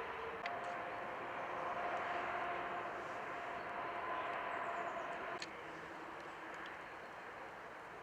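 Cable car running: a steady mechanical hum over a rushing noise. A sharp click comes about half a second in, and a louder clack about five seconds in, after which the sound turns quieter and the hum changes.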